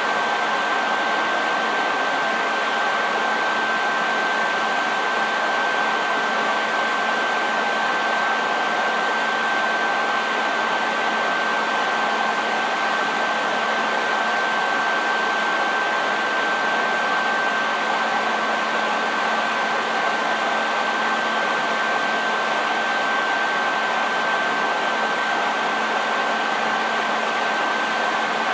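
Hair dryer running continuously: a steady rush of air with a thin, high whine from its motor and a faint low hum underneath, unchanging.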